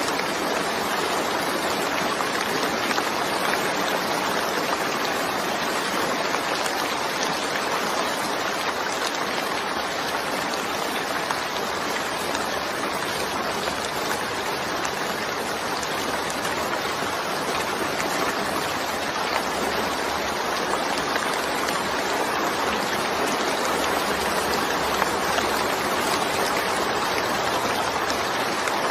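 Steady rainfall, an even unbroken hiss with no distinct drops or pauses.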